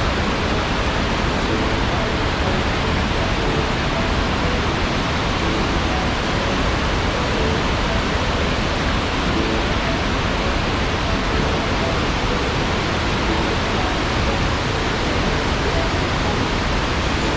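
Waterfall cascades and rushing river water: a steady, unbroken rush of falling water.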